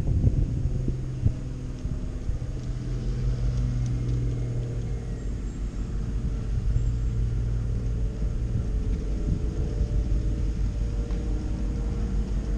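Locomotive engine 2641 running with a steady low hum as the train rolls in, over a low rumble.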